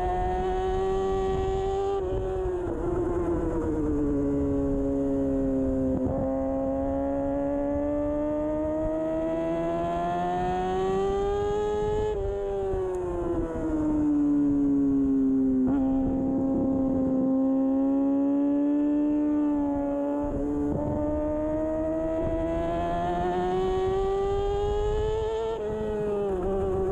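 2013 Kawasaki Ninja 636's inline-four engine under hard racing throttle, its pitch climbing over several seconds and then falling quickly, about three times: near the start, about halfway, and near the end.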